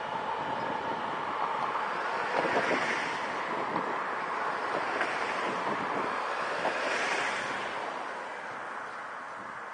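Passenger train running away into the distance, a steady rumbling hiss of wheels on rail that swells twice and then fades as it recedes, with wind on the microphone.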